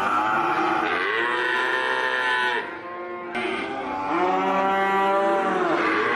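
Cattle mooing: long, drawn-out moos, one after another, with a short break about halfway through.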